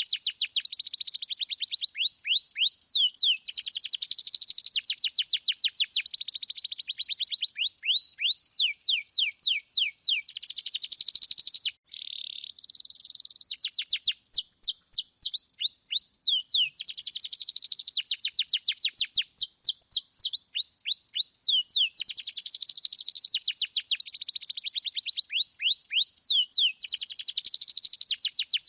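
Domestic canary singing a long, fast song of rolling trills and rapidly repeated downward-sweeping whistled notes, with a brief break about twelve seconds in.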